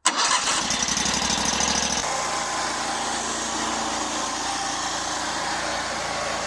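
Harbor Freight Predator 670 V-twin engine running steadily as the small truck drives, its note changing about two seconds in.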